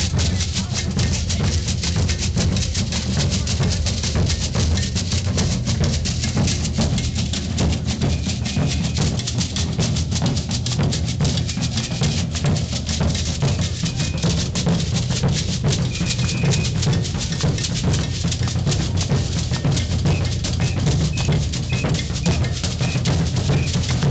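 Maracatu percussion group playing: deep bass drums pounding steadily under dense, rapid snare and shaker strokes, without a break.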